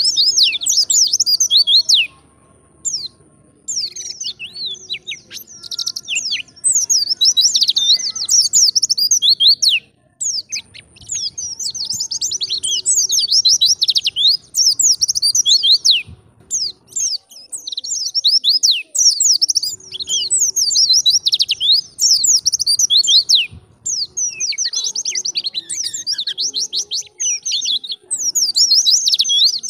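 White-eye (pleci) singing in long, fast runs of high twittering chirps and trills, broken by brief pauses between phrases.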